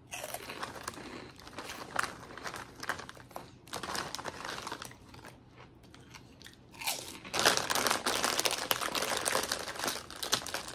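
Crunchy salt and vinegar pork rinds being bitten and chewed, with the plastic snack bag crinkling as it is handled. The crunching and crinkling are loudest in a stretch about two-thirds of the way through.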